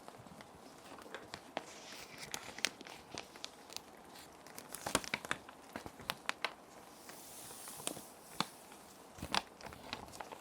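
Plastic sheet protectors crinkling and crackling in irregular sharp bursts as they are handled, over a steady hiss of soft rain.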